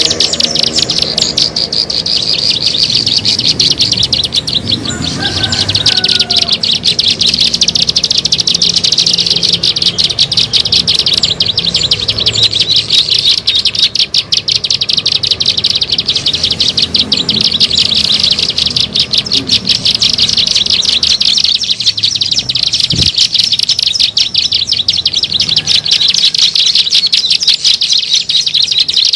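Ciblek sawah (a prinia) calling in a fast, unbroken series of rapid, high-pitched ticking notes, played as a bird-trapping lure call.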